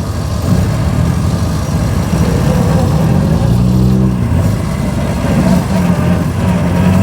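1924 Austin Seven's small four-cylinder side-valve engine running under way, heard from inside the cabin, with a brief humming note about halfway through.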